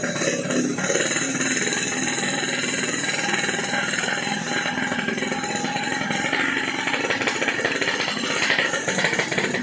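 Yamaha RX-King's two-stroke single-cylinder engine running steadily through a hollowed-out 'bobokan' exhaust, a fast, even rattle of firing pulses with a hiss over it.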